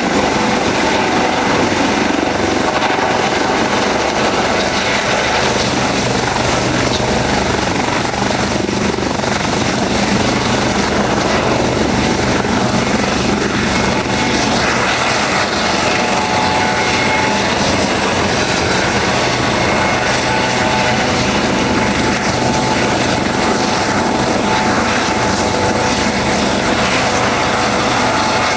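Helicopter running close by, a loud steady rotor and engine noise with a thin high whine that dips slightly about halfway through.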